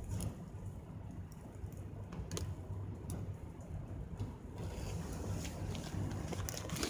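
Wood campfire crackling, a few scattered sharp pops and clicks over a steady low hum.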